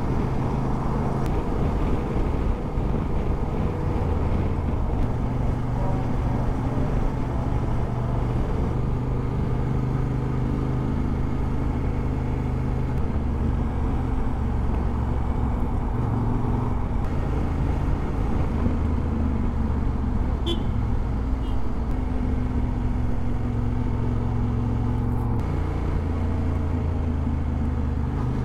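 Motorcycle engine running while riding, a steady drone whose pitch shifts up and down a few times.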